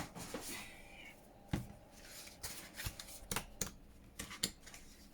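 Paper and card being handled: pages of a book turned and rustled, with a scatter of short, sharp ticks and taps.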